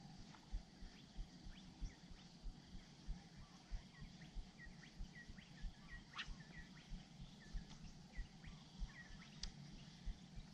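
Small birds chirping in short, repeated calls, mostly in the middle of the stretch, over a faint low thump that repeats steadily about every two-thirds of a second.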